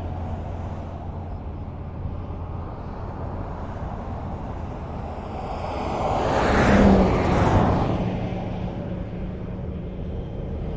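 Highway traffic: a steady low rumble of cars on the road, with one vehicle passing close by about two-thirds of the way through, swelling and then fading.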